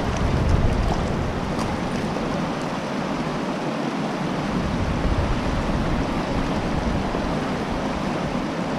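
Fast creek current rushing steadily, an even hiss of moving water.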